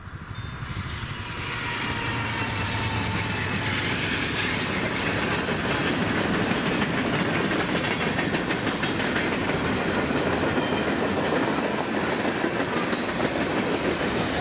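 Norfolk Southern freight train rolling past, a steady rush of cars on the rails that builds over the first couple of seconds and then holds.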